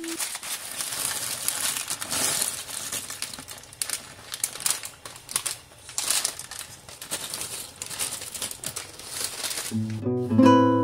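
Pot of water at a rolling boil with fusilli pasta cooking in it, a dense crackling bubbling. Acoustic guitar music comes back in near the end.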